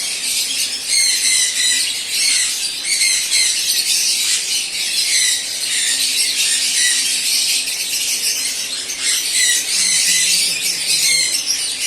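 Many caged small birds chattering and squawking at once in an aviary: a dense, high-pitched wall of short overlapping calls that never lets up.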